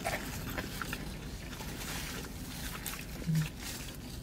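A person chewing food with the mouth closed, with faint small mouth clicks, and one short low 'mm' hum about three seconds in.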